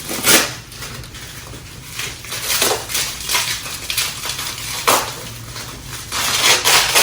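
Packaging crinkling and rustling in irregular bursts as a mail-order box is unpacked by hand.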